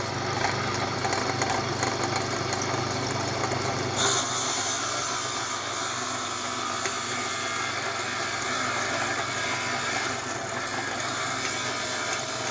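Electric lapidary grinding wheel running steadily with a rough opal held against it, ground down to look for colour. The grinding noise gets brighter and harsher about four seconds in.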